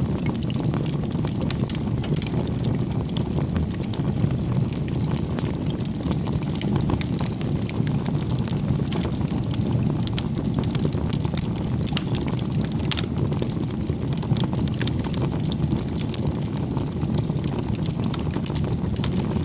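Crackling bonfire: a steady low rumble of burning with frequent small, sharp crackles and pops scattered throughout.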